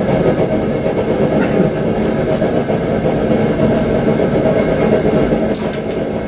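Forge running with a steady low roar while a steel blade heats in it for hardening, with a couple of faint light clicks.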